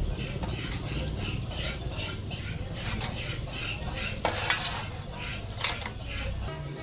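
Metal parts and hand tools clinking and scraping against each other, several light knocks a second with a couple of louder scrapes past the middle, over a steady low rumble.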